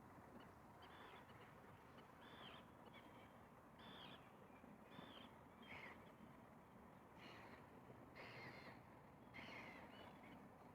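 A faint, distant bird giving a string of short, high calls, roughly one a second, over a quiet steady hiss of lakeside ambience.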